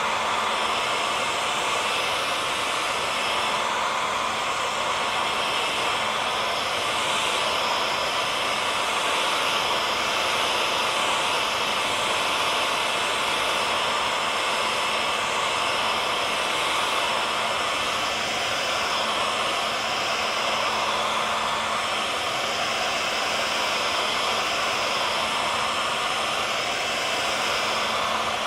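Hair dryer running steadily: a constant blowing rush of air with a faint motor hum and whine.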